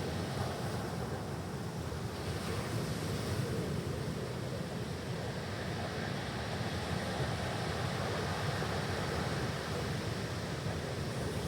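Ocean surf washing onto a stony beach: a steady, unbroken rush of waves, strongest in the low range, with a slight brightening of hiss about two seconds in.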